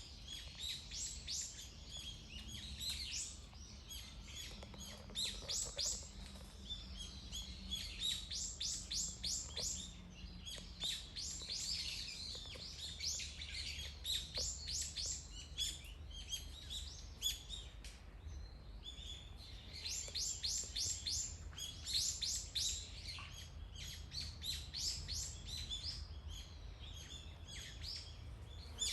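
Several songbirds chirping and calling, many in quick runs of repeated high notes, with a faint low background rumble.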